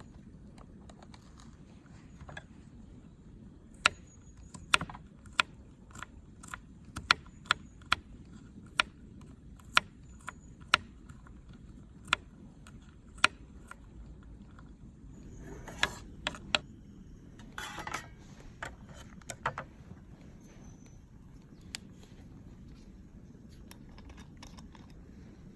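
A run of sharp clicks and clinks of hard objects being handled, roughly one a second, then two short rustling scrapes, over a steady low background hiss.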